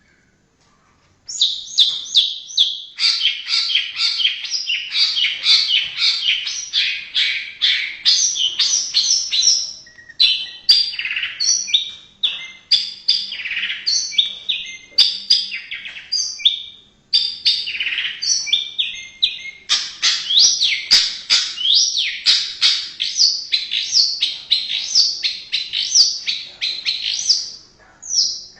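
White-rumped shama (murai batu) singing: a long, fast run of varied whistles and chattering notes, starting about a second in, with a few short breaks.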